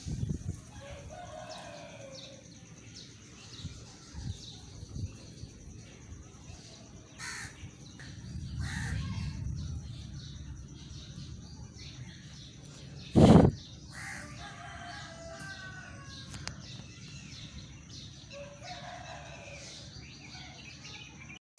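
A rooster crowing three times, with a low rumble of wind on the microphone. A single loud thump comes a little after the middle.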